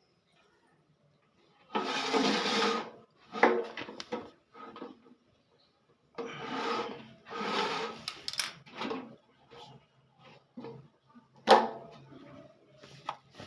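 Hand work on a washing machine drum while its spider is cleaned and fitted: two long stretches of scraping and rubbing, then scattered knocks and clicks of metal parts, with one sharp knock near the end.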